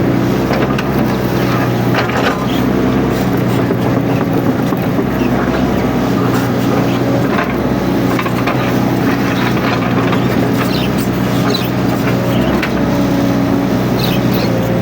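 Mini excavator's diesel engine running steadily under work, with scattered clicks and knocks over it.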